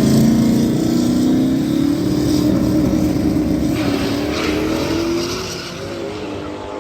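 Drag race car's engine at full throttle going down the track, its pitch climbing as it accelerates, then fading as the car pulls away.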